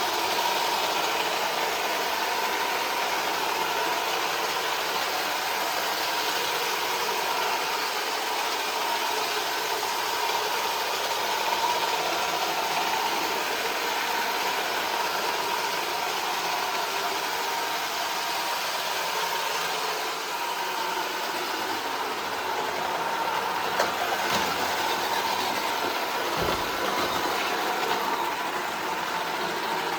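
iRobot Roomba 440 robot vacuum running, a steady motor and brush whir with a steady whine. A few light knocks come in the last several seconds.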